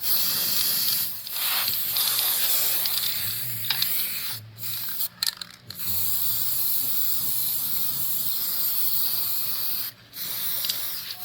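High-pressure spray hissing in long bursts, stopping briefly several times as the trigger is released.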